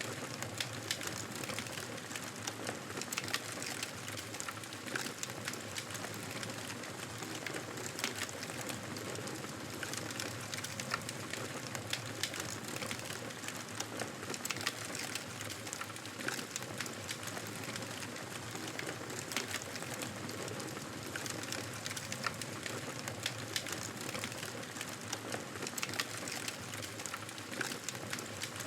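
Wood fire crackling in a fireplace: frequent irregular snaps and pops over a steady soft hiss.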